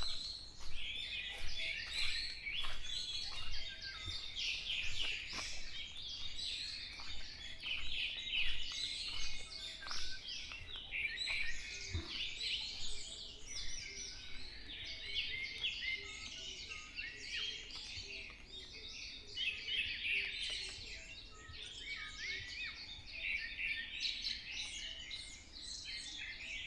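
A dense chorus of many songbirds singing at once, short chirps and trills overlapping without a break.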